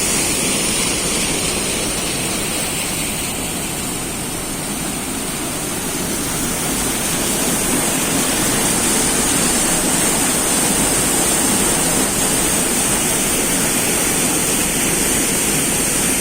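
Fast-flowing water rushing steadily, dipping slightly in level about four seconds in.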